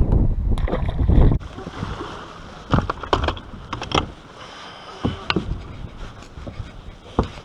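Wind buffeting the microphone with a loud low rumble for about the first second and a half. After that, water slaps against a boat's hull, with several scattered sharp knocks.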